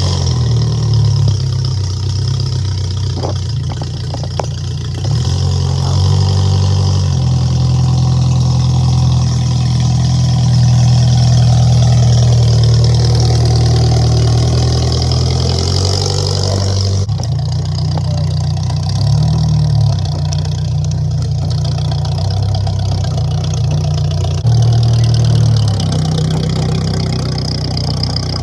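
Car engine running at idle, its speed shifting slightly a few times.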